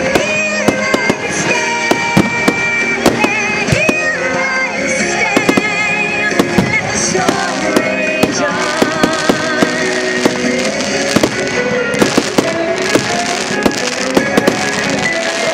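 Fireworks bursting in a rapid series of bangs and crackles over music, the bangs coming thicker in the second half.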